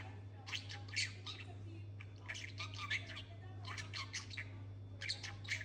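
Pet budgerigar chattering in four short bursts of quick chirps and squawks, over a steady low hum.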